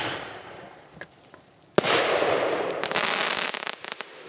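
Consumer fireworks going off: a sharp bang at the start followed by a fading hiss, then another sharp bang a little under two seconds in and about two seconds of loud hissing with scattered crackles.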